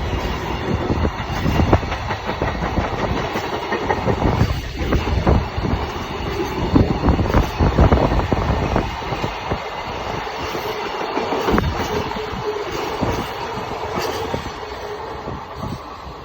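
Freight wagons rolling past on the rails, wheels clacking over rail joints in quick, irregular beats, fading slightly near the end.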